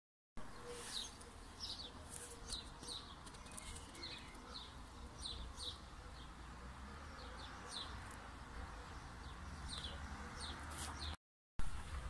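Small birds chirping: short, high, downward-sliding chirps repeated every half second or so, over a faint low rumble. The sound drops out briefly near the end.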